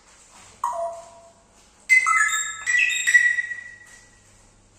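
A short chime-like melody: a quick falling note, then a run of clear bell-like notes stepping in pitch, the last one ringing out.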